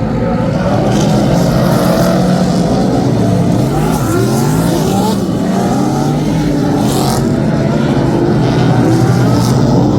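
Several Superstock speedway cars' V8 engines racing together, their pitches rising and falling over one another as they accelerate and back off.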